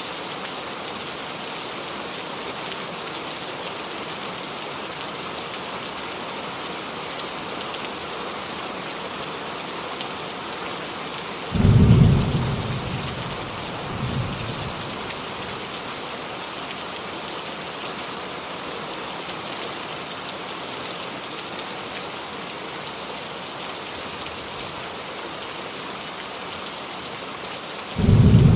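Steady rain falling on a roof, an even hiss. About twelve seconds in a sudden clap of thunder rumbles and fades over a couple of seconds, followed by a weaker rumble. Another clap breaks in near the end.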